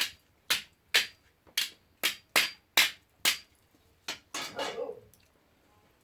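A run of sharp knocks, about ten strikes at roughly two a second with uneven spacing, stopping about four and a half seconds in.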